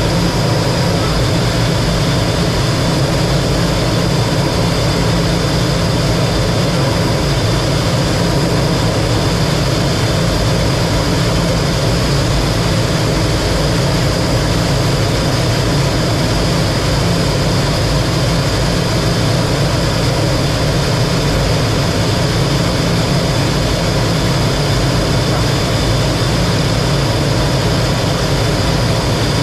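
T-33 jet trainer's turbojet engine running steadily, heard as a loud, even rush of noise with a steady high whine over a low rumble.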